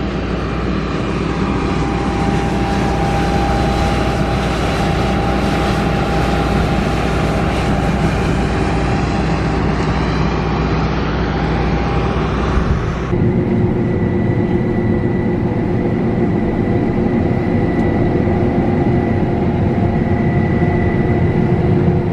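Combine harvester running steadily while cutting wheat, a continuous machine drone with steady tones. About 13 s in the sound changes abruptly to a duller drone with a thin high whine.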